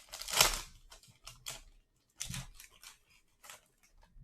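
Foil wrapper of a 2020 Panini Select Football card pack being torn open and crinkled, the loudest rip about half a second in, followed by several shorter rustles and clicks.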